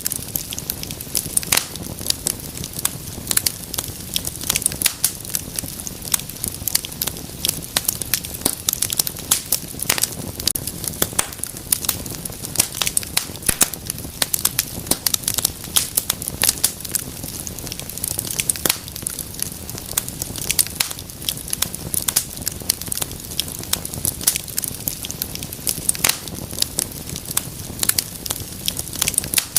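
Wood fire crackling, with frequent sharp pops and snaps over a low, steady rumble of flames.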